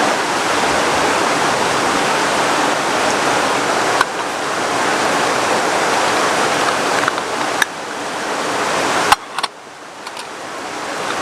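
Heavy rain falling steadily in a dense hiss. It is broken by a few abrupt cuts with clicks; after the last, about nine seconds in, it drops quieter and then builds again.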